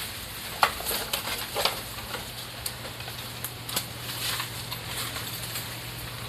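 Irregular crackling and rustling of fallen bamboo and bamboo grass as cattle tear at and push through it, with a few sharper snaps, over a steady low hum.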